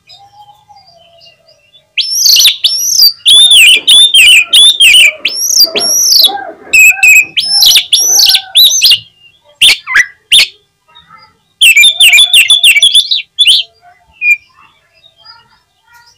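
Oriental magpie-robin singing loudly in fast runs of repeated, arching whistled notes, starting about two seconds in, with a few sharp calls in a short break and a final burst of song near the end.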